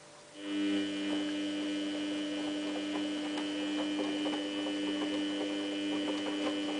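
Samsung WF8804RPA washing machine giving off a steady electrical hum, from a pump or valve, with faint ticks through it. It starts abruptly about half a second in and cuts off just before the end.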